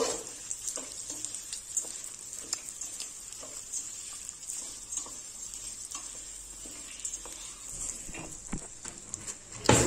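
Bulgur and browned vermicelli sizzling in oil in a stainless steel pot, a wooden spoon stirring and scraping through the grains. A sharp knock just before the end.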